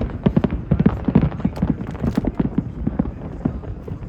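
Fireworks shells bursting in a rapid, irregular series of pops and bangs, several a second.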